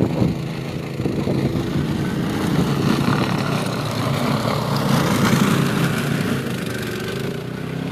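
Snow blower's small engine running steadily, its pitch wavering slightly as it works.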